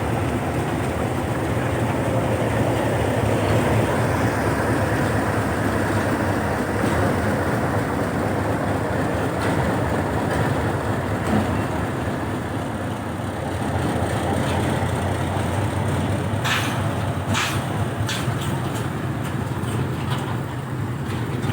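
Two diesel-electric locomotives, a D13E and a D18E, running steadily with a loud low engine drone, with a few sharp clacks about three-quarters of the way through.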